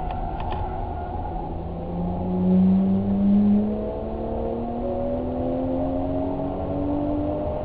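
A vehicle engine accelerating, its note climbing steadily in pitch and loudest about three seconds in.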